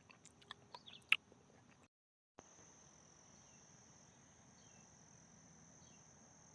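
Steady high-pitched drone of insects in the forest, with a few sharp clicks and crackles in the first second or so. The sound cuts out completely for a moment about two seconds in, and a few faint short chirps come later.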